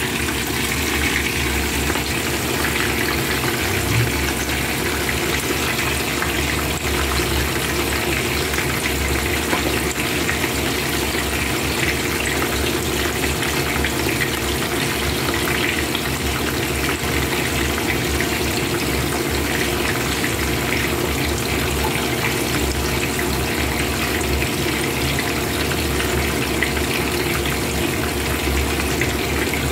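Whole fish deep-frying in hot oil in a pan: a steady sizzling and bubbling.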